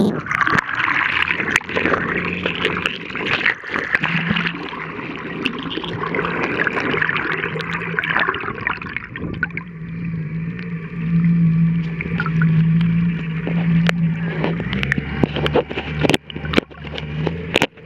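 Jet ski engine running steadily with water rushing and splashing against the hull, plus scattered knocks. About 15 seconds in the engine note drops lower as it slows.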